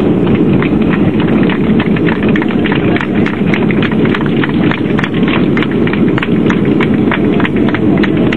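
Boeing 737 heard from inside the passenger cabin during landing: a loud, steady roar with many irregular sharp rattles and clicks several times a second.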